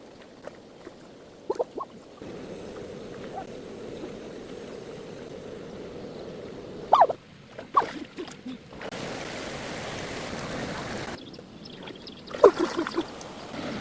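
Steady rushing of flowing water, such as a stream or waterfall, broken by several abrupt edit cuts. A few short, loud pitched calls stand out near the middle and again near the end.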